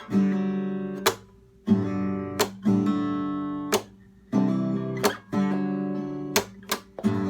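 Acoustic guitar strumming a chord pattern: full ringing strums broken by sharp, percussive muted strokes about every second and a bit, with brief damped gaps.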